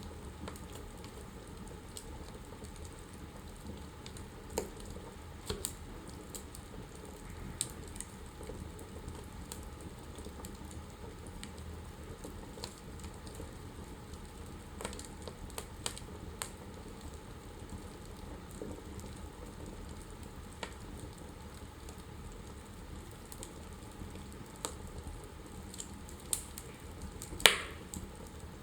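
Wood fire burning in a fireplace, crackling with irregular sharp pops over a low steady hiss, and one louder pop near the end.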